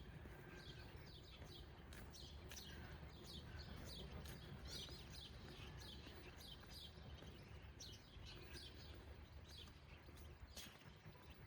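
Small birds chirping, many short, quick chirps throughout, over a faint, steady low hum of the city.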